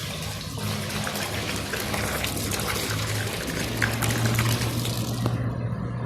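Water rushing out steadily over a low, steady machine hum, in a car wash. The water stops about five seconds in.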